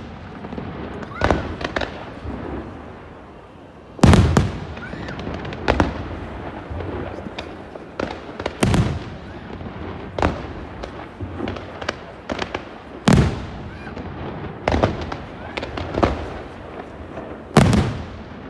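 Fireworks display: shells going off in a run of sharp bangs, one every second or two, with the loudest about four seconds in.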